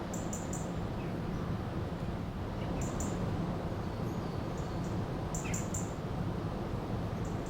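River water flowing steadily, with small birds giving short, very high chirps in quick runs of two or three, several times over.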